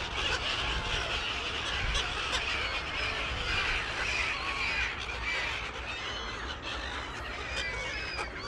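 A large flock of gulls calling, with many short, overlapping squawks and cries, over a steady low rumble.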